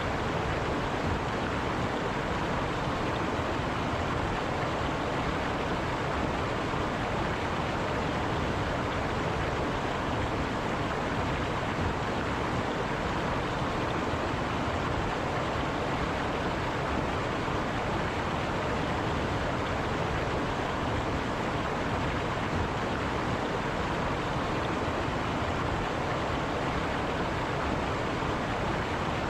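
River water flowing over rocks: a steady, unbroken rushing.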